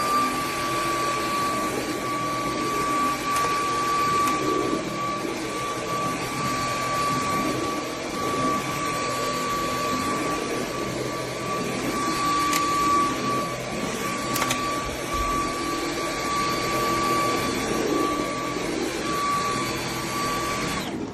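Cordless stick vacuum cleaner's motor running with a steady high whine over a rush of air, then switched off abruptly near the end.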